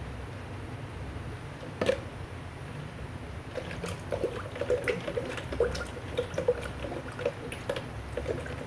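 Liquid being handled in a kitchen bowl or pot: irregular small splashes and pops that become denser from about halfway through, with one sharp knock about two seconds in.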